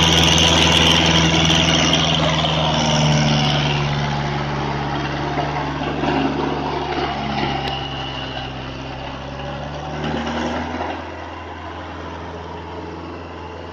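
Kubota tractor's diesel engine running steadily. It grows gradually quieter and drops a step about eleven seconds in, with a hiss over it for the first few seconds.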